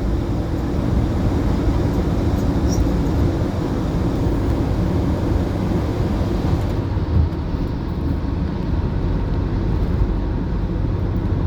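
Steady low rumble of a vehicle in motion, with no distinct knocks or tones.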